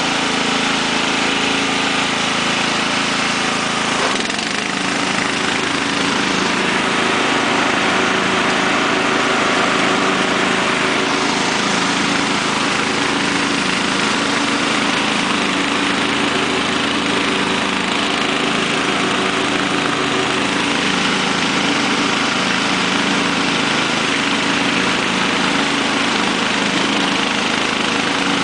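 Murray 17 hp lawn tractor engine running steadily. Its note shifts about four seconds in, then holds steady again.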